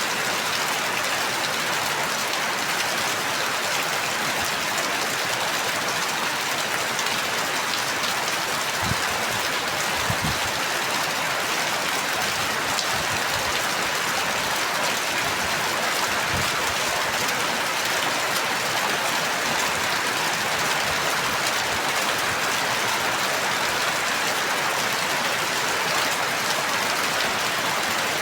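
Steady rain falling, an even dense patter, with a few faint low thumps near the middle.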